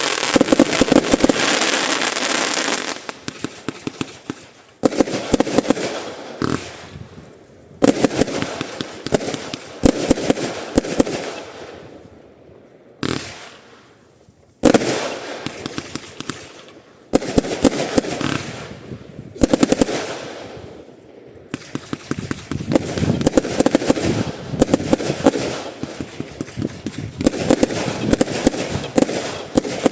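Lesli "Biggest Momma" firework going off in a series of loud shots every two to three seconds. Each shot is followed by a dense run of fast crackling pops that fades away.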